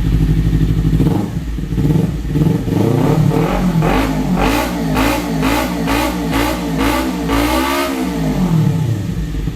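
Kawasaki Z250 parallel-twin motorcycle engine and exhaust, idling steadily, then about a second in the throttle is blipped again and again, the revs rising and falling about twice a second.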